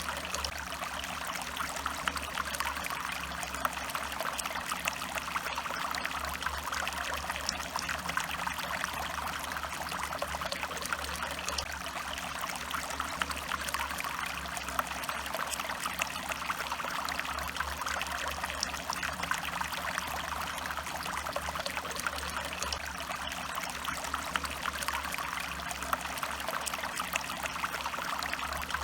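A small stream of water trickling and splashing steadily over stones.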